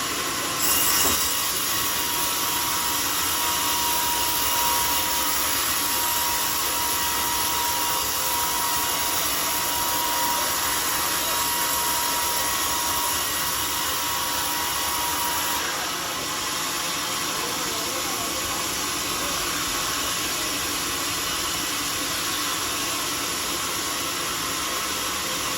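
Homemade sawmill saw cutting through a teak log, a steady sawing noise with a thin whine that stops about fifteen seconds in.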